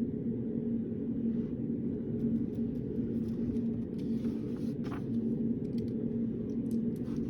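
Steady low room hum of a study room with a constant tone in it, over which come faint scattered taps and rustles of study work such as a pen and paper.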